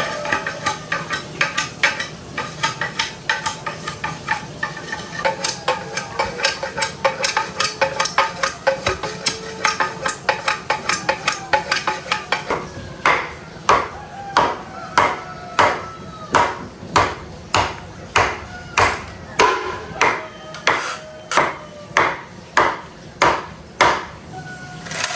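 Repeated sharp strikes with a ringing tone, quick and dense at first, then about halfway through settling into a slower, even beat of roughly one and a half strikes a second.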